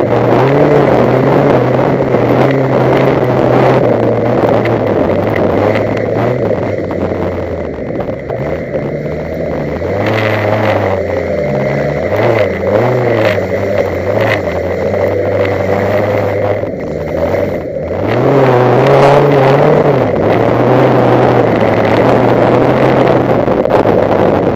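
Wreck-race car engine heard onboard while the car is driven hard. The revs rise and fall repeatedly with throttle and gear changes, dropping back briefly about eight seconds in and again near eighteen seconds before climbing once more.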